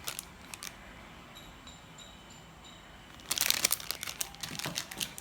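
Crinkling of packaging being handled: a few light clicks, then a louder burst of crinkling about three seconds in.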